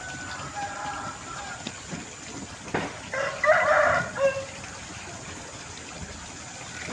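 A rooster crowing once, loud and about a second long, about three seconds in, with fainter calls in the first second and a half.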